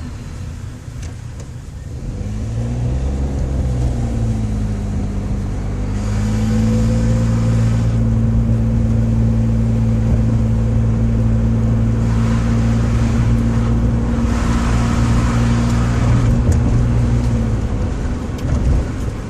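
Daihatsu Move Custom RS (L175S) engine running with a low drone. Its pitch rises about two seconds in, holds steady for a long stretch, and drops back near the end.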